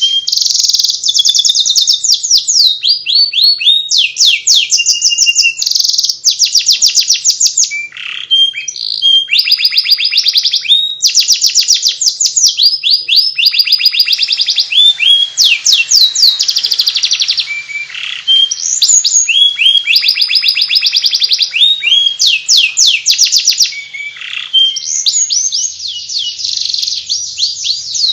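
Domestic canary singing the 'ngeriwik' song: a continuous, high-pitched twittering of rapid trills and fast sweeping notes, broken only by brief pauses.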